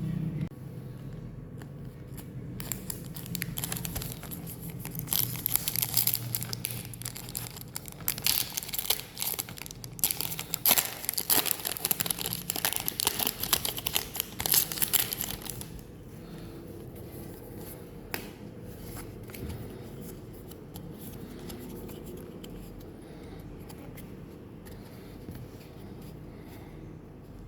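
Foil wrapper of a Pokémon card booster pack being torn open and crinkled by hand, in a run of crackly rips and rustles from a few seconds in until about halfway through, then only faint handling.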